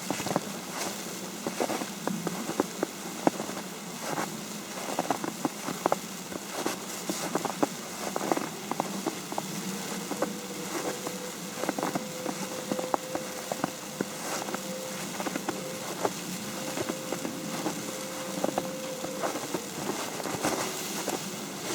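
Falling snow tapping on an umbrella overhead: many small, irregular taps over a steady hiss. A faint steady hum sounds through the middle.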